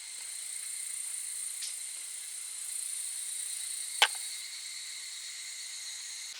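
Insects trilling steadily in high, unbroken tones, with one sharp crack about four seconds in.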